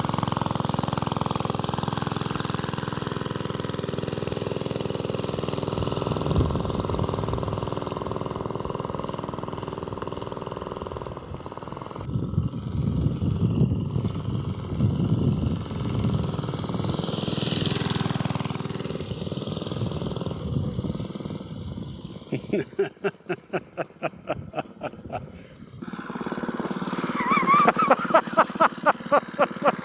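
Small single-cylinder Briggs & Stratton engine on a minibike running while it is ridden, its speed rising and falling. In the later part it drops to a slow, even putter of about four beats a second, then revs up again near the end.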